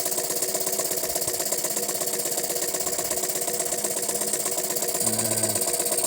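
Jensen 50 toy steam engine running steadily under steam, a rapid, even chuffing.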